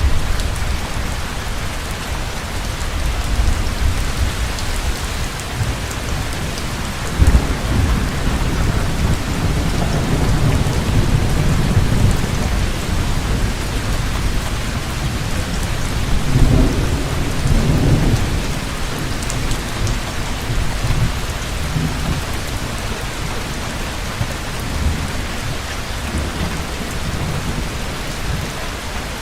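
Heavy rain falling steadily, with rolling thunder rumbling low through it, swelling a little after 7 seconds in and again around 16 to 18 seconds.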